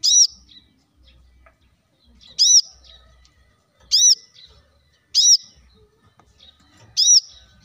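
Brown-throated sunbird (kolibri kelapa) calling: a loud, sharp, arched high call given five times, roughly every one and a half seconds, with faint softer chirps in between.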